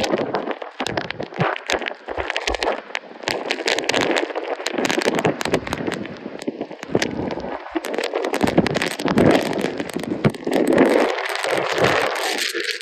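Hurricane-force wind and rain blasting the microphone, with dense crackling and rattling throughout.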